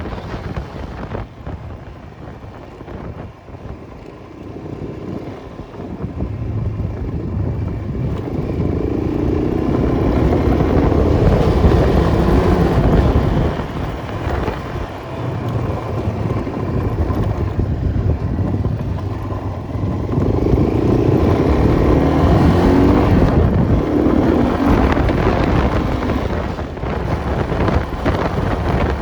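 Enduro motorcycle engine running under load, revving up and down as it rides, with wind buffeting the microphone. It is quieter for the first few seconds and grows louder from about six seconds in.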